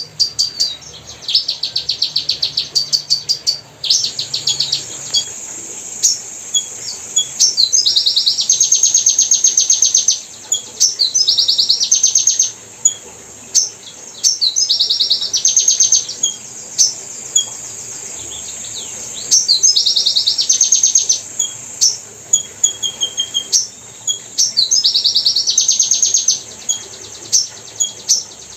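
A small bird singing: high, rapid trills a second or two long, repeated every three to four seconds, with single sharp chips in between.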